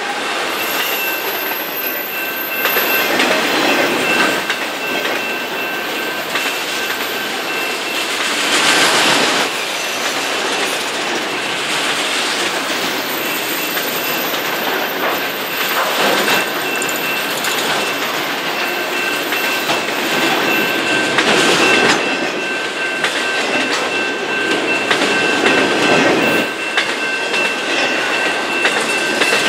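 Loaded autorack cars of a long freight train rolling past, with steady wheel-on-rail rumble and clatter that swells every few seconds as trucks pass. A steady high ringing tone runs underneath throughout.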